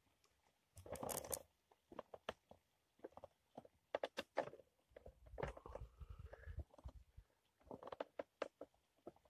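Scattered small clicks, knocks and rustles of things being handled, with a low rumble from about five to seven seconds in.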